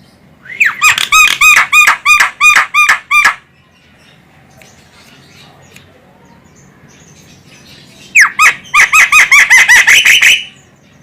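Javan myna calling: two runs of about ten rapidly repeated notes, roughly four a second, a few seconds apart.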